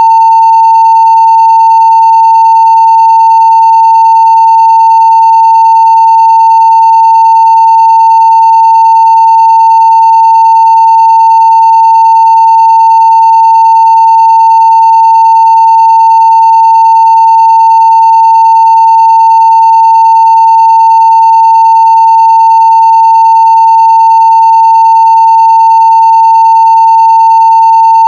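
A steady 900 Hz sine-wave test tone at full scale (0 dB), unbroken and unchanging.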